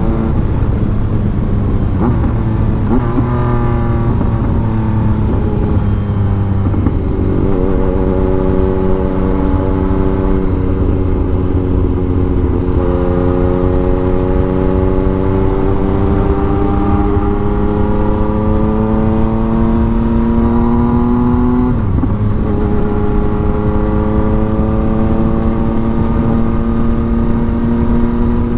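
Yamaha MT-09's three-cylinder engine under hard acceleration, fitted with an aftermarket exhaust and a flashed ECU: its pitch climbs through the gears, dropping at upshifts about 2, 3, 7, 13 and 22 seconds in, then climbing slowly in top gear. Heavy wind rush runs underneath.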